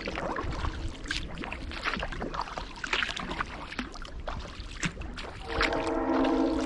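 Kayak paddle strokes: the blades dip and pull through river water with splashes and dripping. Over the last second or so a steady hum of several even tones joins in and is the loudest sound.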